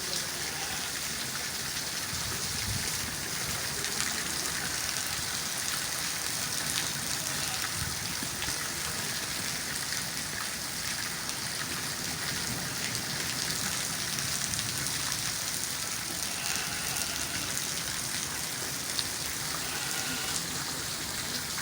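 Steady rain falling, an even hiss with the fine patter of many drops.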